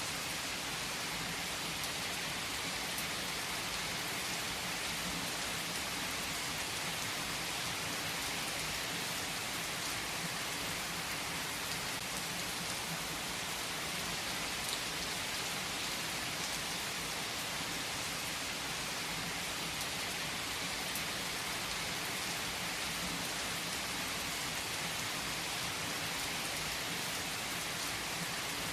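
Steady rain falling on a surface: an even hiss of many drops.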